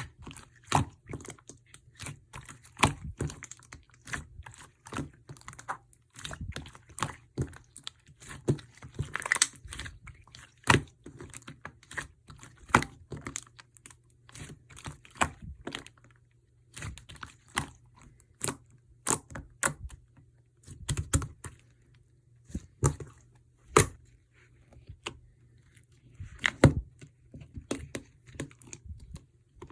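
Slime being squished and pressed by hand, giving sharp sticky clicks and pops at an uneven pace.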